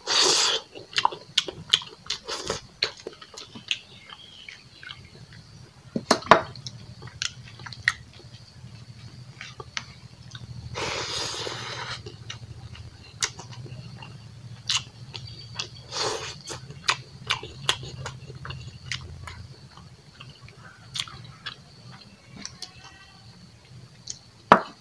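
Close-miked eating: wet chewing and lip smacking of braised pork belly and potato with rice, in many short clicks and squishes, with a couple of longer slurping bursts and a sharp knock near the end.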